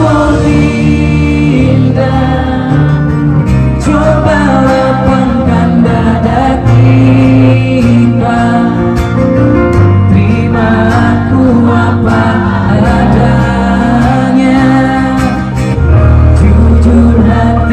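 A pop band performing live: singing over electric guitar, bass and drums, loud and continuous.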